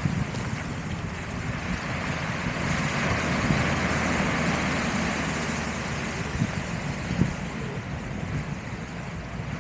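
Sea surf washing onto the beach, with wind buffeting the microphone; the surf swells a few seconds in, then eases off.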